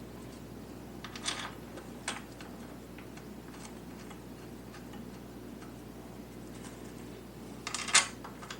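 Light metallic clicks and clinks of bolts and engine-mount hardware being handled and fitted. There is a pair about a second in, another near two seconds, and a louder cluster near the end, over a faint steady hum.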